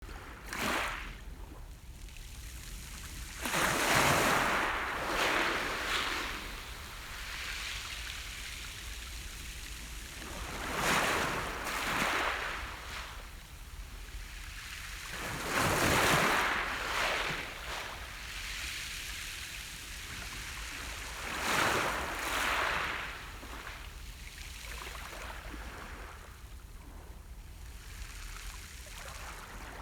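Sea surf: four waves break on the shore, each a loud rushing swell that fades away, with a lower steady wash of water between them.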